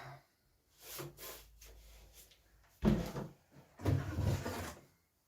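Parts from a diesel heater kit being handled and set down. A few light knocks come about a second in, then a sharp thump just under three seconds in, then about a second of clattering.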